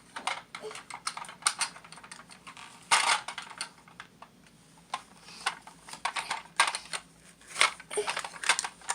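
Irregular sharp clicks and clatter of toy coins and a plastic toy recycling truck being handled, with a louder cluster about three seconds in.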